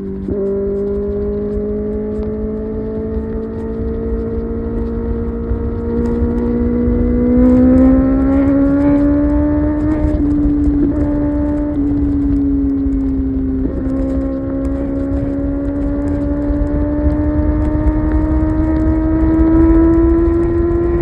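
Kawasaki ZX-6R inline-four engine pulling at highway speed, its note climbing slowly as it accelerates, with short breaks in the note near the start and about fourteen seconds in. A steady low wind rumble lies under it.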